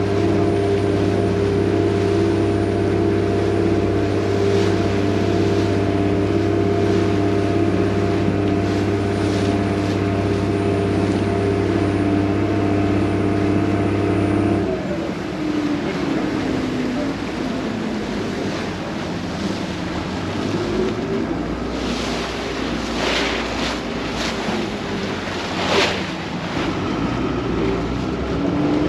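Vaporetto water bus engine running with a steady drone, which drops away abruptly about halfway through as the throttle comes down, leaving a lower, wavering engine note. Water splashing and wind noise fill the second half, with several sharp splashes near the end.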